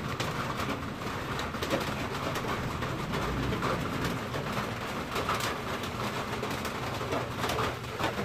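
Birds cooing.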